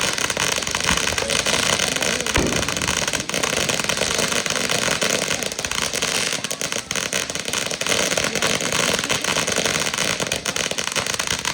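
Consumer fireworks going off in a dense, continuous crackle of rapid small pops and bangs.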